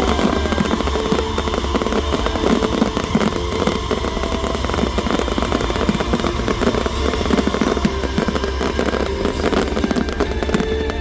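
Fireworks display going off: a dense, unbroken run of crackles and bangs.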